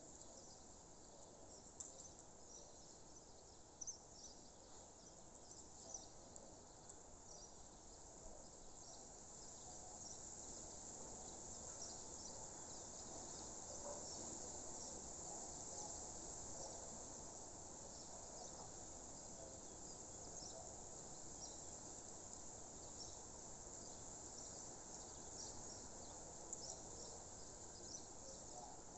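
Faint countryside nature ambience: a steady high chirring of insects with many short high chirps from insects and birds over a soft even hiss.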